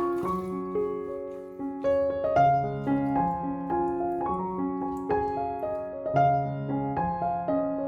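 Background piano music: a gentle melody over chords, at a moderate pace.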